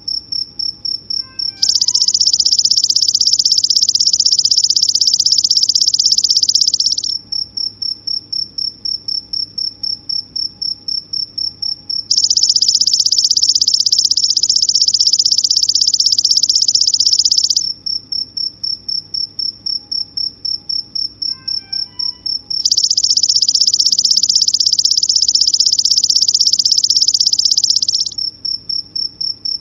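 Insects chirping in a steady high pulse about three times a second. Three times, a louder continuous buzzing trill takes over for about five seconds, at even intervals like a repeating loop.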